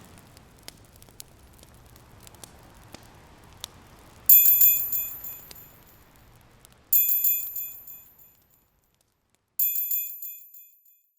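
Countdown timer's end alarm: a bright bell rung in quick strokes, three rings about two and a half seconds apart, each dying away. Before it, faint fire crackles fade out.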